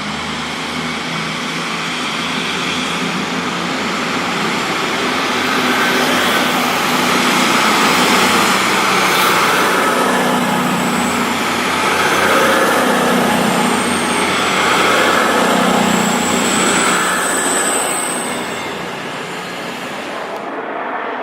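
A train running through the station: a broad rumble swells over several seconds, stays loud, then fades near the end, with a thin high squeal in the middle of the loud part.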